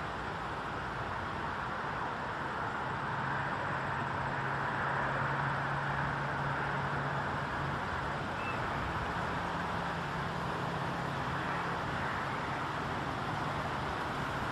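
Steady outdoor background noise of distant traffic, with the low hum of a vehicle engine passing from about three seconds in until it fades near twelve seconds.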